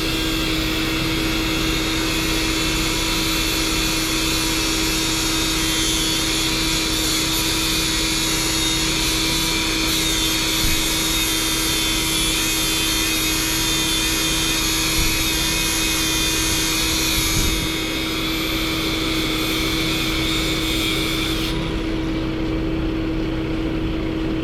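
Truck running with a steady drone and a constant hum. The high hiss on top cuts off suddenly near the end.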